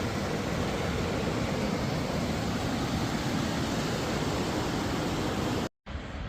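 Steady, loud rush of fast-flowing stream water just above the brink of a tall waterfall. It cuts off abruptly near the end, giving way to a fainter outdoor hiss.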